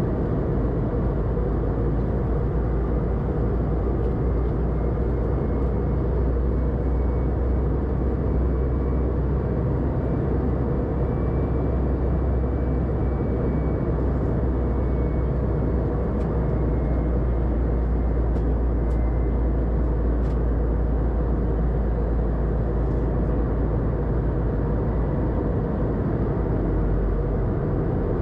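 Steady cabin noise inside an Airbus A320-200 in flight: a constant low rumble of airflow and engine noise. A faint high tone drifts in and out partway through.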